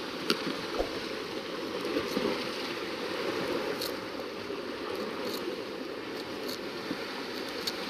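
Sea water washing and lapping against shoreline rocks, with a few faint clicks.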